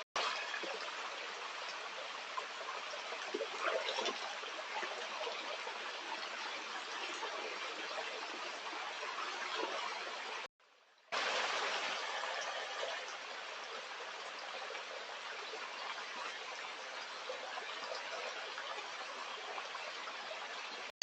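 Stream water running steadily over stones, a continuous rushing and trickling. It drops out for about half a second midway, then returns a little louder.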